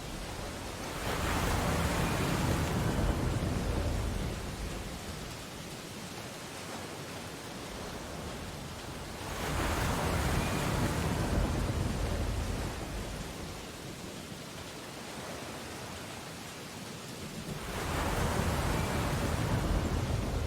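Ocean waves breaking and washing up a beach: three surges, each building over a second or so and fading over a few seconds, about eight seconds apart, over a steady wash of surf.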